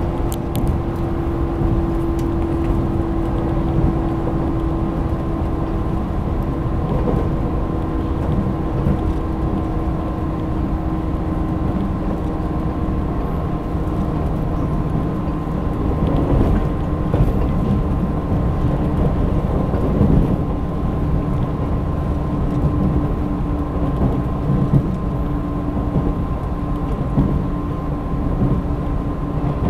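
Running sound of a JR 185 series electric train heard from inside the carriage: a steady rumble of wheels on rail with a faint steady hum over it.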